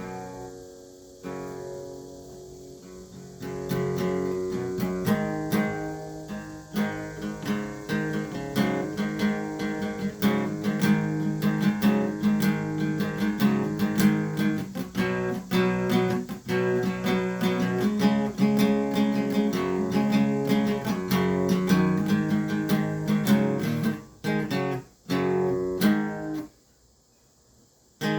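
Acoustic guitar playing, notes picked in quick succession. It starts softly, grows louder a few seconds in, and breaks off for about a second and a half near the end before starting again.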